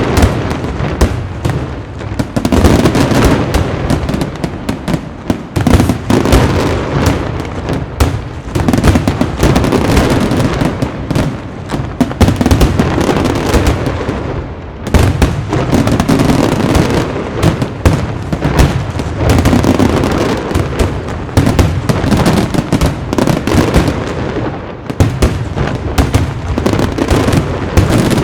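Caballer FX aerial fireworks display: a dense, continuous barrage of shell bursts, bangs and crackle, many reports overlapping with no pause.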